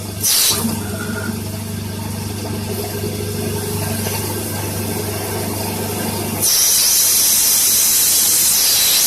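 CNC lathe running with a steady electric hum, broken by a short hiss about half a second in and a longer, louder hiss from about six and a half seconds in.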